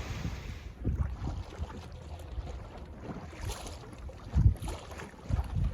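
Wind buffeting the microphone aboard an inflatable rubber boat at sea, with water sloshing and irregular low thumps, the loudest about four and a half seconds in.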